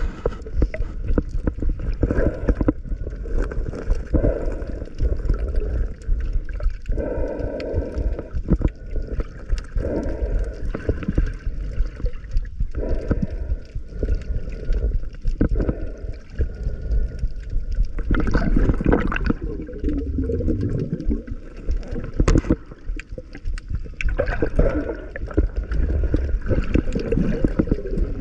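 Water gurgling and sloshing with bubbles and irregular knocks, muffled and low, as picked up by a camera underwater.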